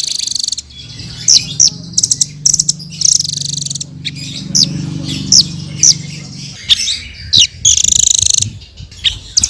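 Blue-crowned hanging parrot (srindit) calling: a rapid series of sharp, high-pitched chirps broken by short buzzy trills, over a faint low hum in the middle.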